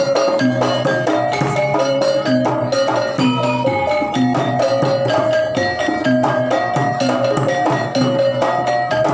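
Javanese gamelan music for a jaranan horse dance: metallophones ring out quick runs of short notes over drum strokes in a steady, even rhythm.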